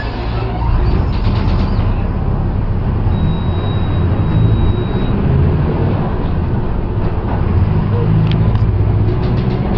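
Mercedes-Benz OF-1722M bus's diesel engine running with a low rumble that grows louder about a second in. A faint steady high tone sounds for about two seconds in the middle.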